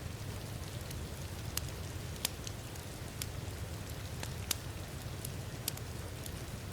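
Steady rain mixed with a wood fire crackling, its sharp pops coming every second or two over a low rumble.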